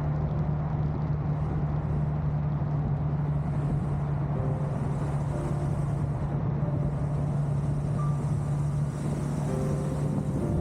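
CFMoto 650 parallel-twin motorcycle engine running at a steady cruise, its hum even throughout, over steady wind and road noise from riding at speed.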